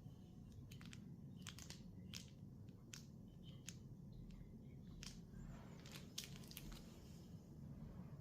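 Faint, irregular clicks and short scratches of a metal calligraphy pen nib working on paper, with a brief stretch of scratchy rasping a little past the middle.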